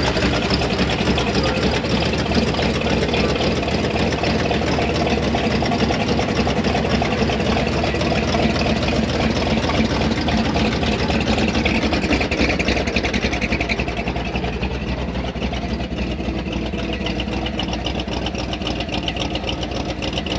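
A truck engine running steadily at idle, loud and unbroken, easing off a little in the second half.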